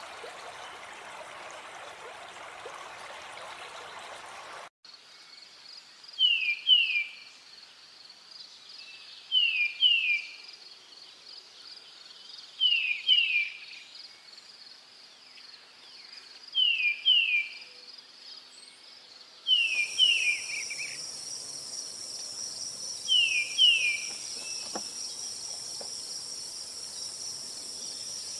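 Forest ambience: for the first few seconds an even rush like flowing water, then, after a cut, a steady high insect trill under a bird calling a pair of quick descending whistled notes about every three seconds, six times. A second, higher insect drone joins about twenty seconds in.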